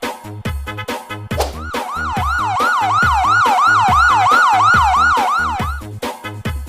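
Police siren sound effect in a fast yelp, sweeping up and down about three times a second over an electronic dance beat. The siren comes in about a second and a half in and stops about a second before the end, leaving the beat.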